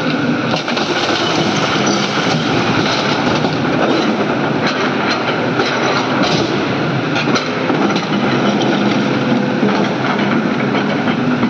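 Hydraulic excavator working: the diesel engine runs steadily under load, with many short metallic clanks and knocks over it.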